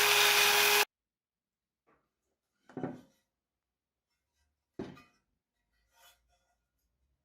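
A power tool running steadily with a whining tone cuts off abruptly under a second in, followed by two soft knocks about two seconds apart and a fainter one later.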